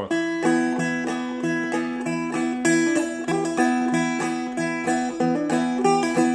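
Seagull Merlin, a four-string dulcimer-style instrument, played in a two-finger clawhammer pattern: thumb-and-finger picking of a blues melody over ringing drone strings, in a steady rhythm.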